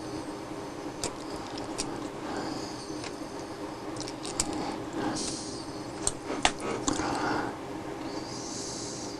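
Small clicks, taps and light scrapes of a servo case and small parts being handled on a workbench, with a steady low hum underneath.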